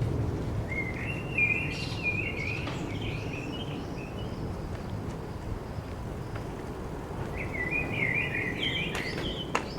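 A songbird singing two short warbling phrases, one about a second in and another about three-quarters of the way through, over a steady low background rumble.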